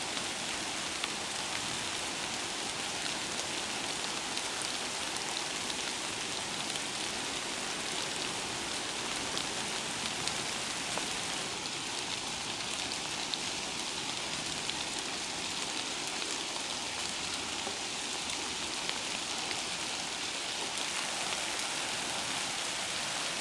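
Steady rain falling on wet leaves and ground, an even hiss with scattered drop ticks.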